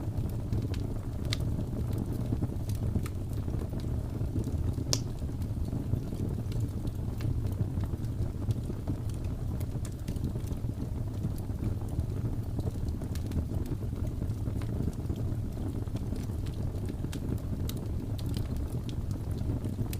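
Wood fire in a fireplace crackling, with scattered sharp pops and snaps, the sharpest about five seconds in, over a steady low rumble.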